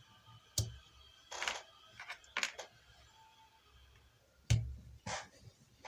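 Irregular clicks, knocks and short scraping rustles of tools and parts being handled on a workbench during a microwave inverter board repair. The loudest is a thump about four and a half seconds in.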